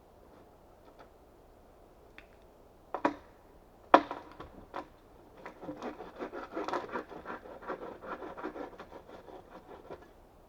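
Wood being handled: two sharp knocks about three and four seconds in, then a few seconds of quick, irregular crackling and scraping.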